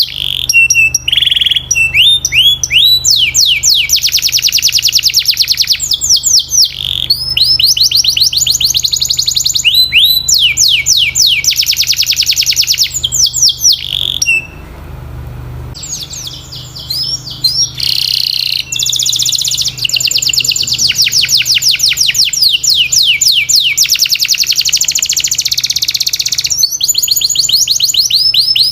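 Domestic canary singing: long trills of rapidly repeated sweeping notes, changing from one rolled phrase to the next, with a short break about halfway through.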